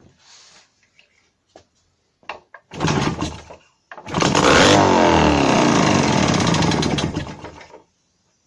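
Jawa 632 350 cc two-stroke twin motorcycle engine with CDI ignition kick-started from cold. It fires briefly on the first kick, catches on the second about four seconds in, runs with the revs rising and falling for nearly four seconds, then stops.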